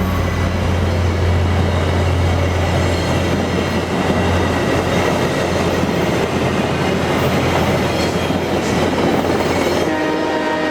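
VIA Rail passenger train, led by GE P42DC diesel locomotives, passing at speed: a deep locomotive drone fades over the first few seconds into the rushing and clickety-clack of the coaches' wheels on the rails. The train horn starts sounding about ten seconds in.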